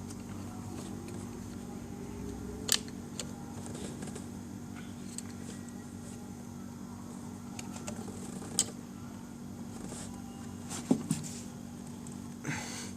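Hand tools working on scooter parts: a few separate sharp metallic clicks and knocks, one about three seconds in, another past the middle and a quick pair near the end, over a steady low hum.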